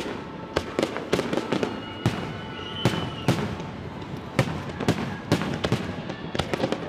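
Aerial fireworks shells bursting: an irregular run of sharp bangs and crackles, several a second, some in quick clusters.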